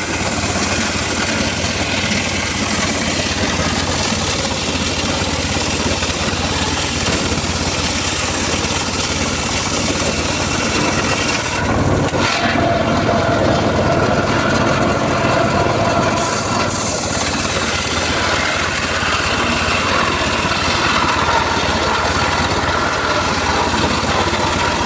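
Homemade circular saw rig running steadily while cutting mahogany, with a steady machine drone throughout. About twelve seconds in the sound briefly shifts, and a steady tone holds for a few seconds.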